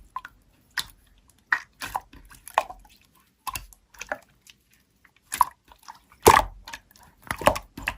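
Slime being squished and pressed by hand, with irregular sticky clicks and wet pops, a few louder ones near the end.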